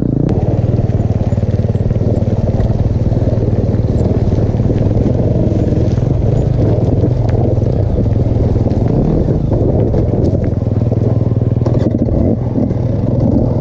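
Dirt bike engine running at a steady pitch.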